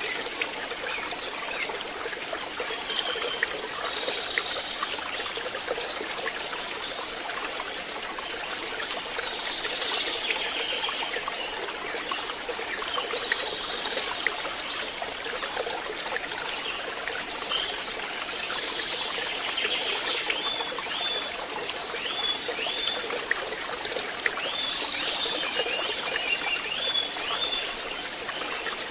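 Pond water trickling and splashing steadily. Short high chirps sound over it, coming in quick runs of falling notes in the last part.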